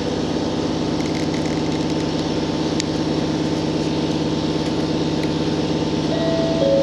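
Cabin running noise of a JR Hokkaido H100 DECMO diesel-electric railcar under way: a steady hum from its engine and drive over an even rumbling haze. A short steady tone comes in near the end.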